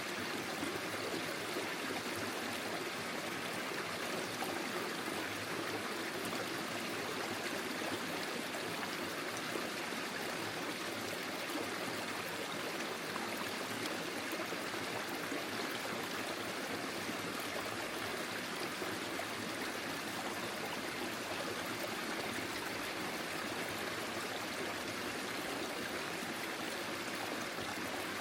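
A small forest stream flowing and trickling steadily over its bed, a constant even rush of water.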